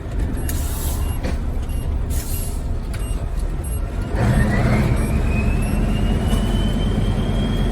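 Scania 143 truck's V8 diesel engine running, with two short hisses of air in the first few seconds. About four seconds in the engine pulls harder and louder, and a whistle rises in pitch and then holds.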